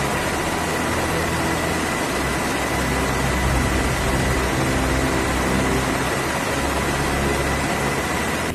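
Steady machine noise: an even roar with a thin, high, steady whine held over it.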